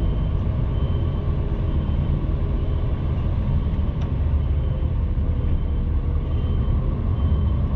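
HGV truck's diesel engine running, a steady low rumble heard from inside the cab.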